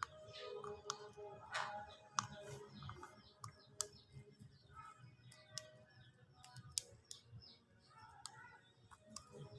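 Irregular light clicks and taps, a few louder than the rest, over faint background music.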